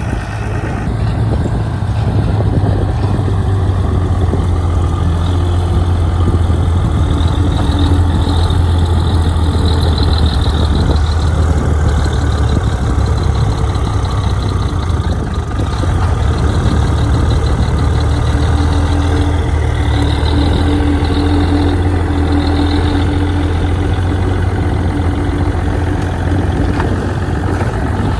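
Bulldozer's diesel engine running steadily with a deep low hum; a faint high-pitched whine comes and goes.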